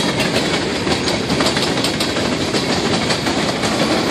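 Freight train of tank cars rolling past, a steady clatter of wheels clicking over the rails.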